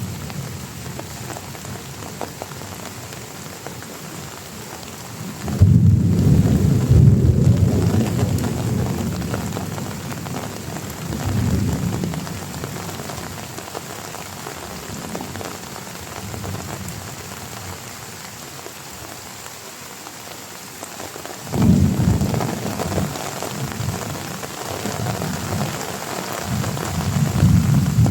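Heavy rain falling steadily, with rolls of thunder. The loudest rumble starts suddenly about six seconds in and fades over several seconds. Another starts sharply about three-quarters of the way through, and weaker rumbles come in between.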